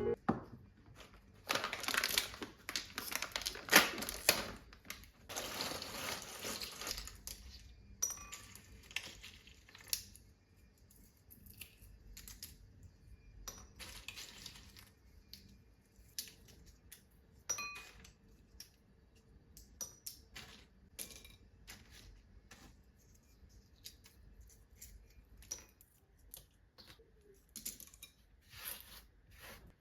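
Hard household items being handled: a few seconds of rustling near the start, then scattered light clinks and knocks, some with a short ring like crockery or cutlery.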